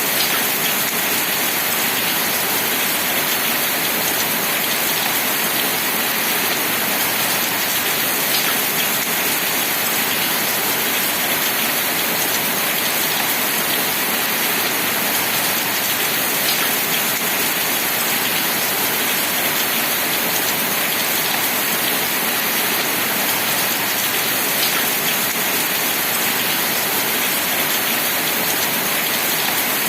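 Steady rain falling in an even hiss, with a faint single tick every several seconds.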